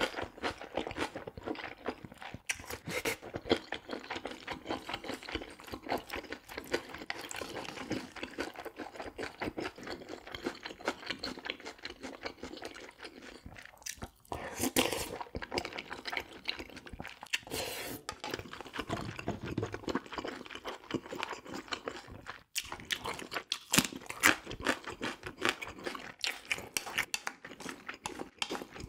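Close-miked chewing and crunching of food, a person eating beef bulgogi with tofu, rice and fresh cabbage geotjeori, in a dense run of small wet clicks with a couple of brief pauses.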